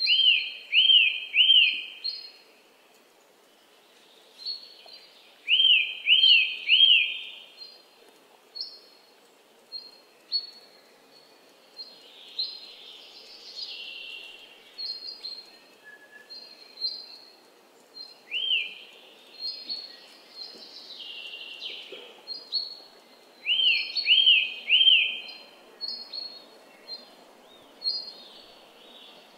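Wild birds calling: a phrase of three quick, arched whistled notes repeated every few seconds, with short high chirps in between, over faint steady background noise.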